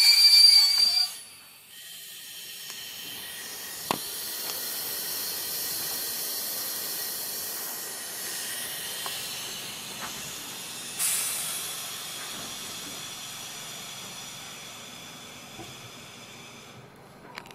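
Train running noise heard from inside the carriage: a steady hiss of the moving train that swells and slowly fades, with a few sharp clicks. A high whine cuts off about a second in.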